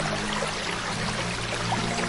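Running water: a steady hiss flecked with small drips and splashes, over low held tones of ambient music.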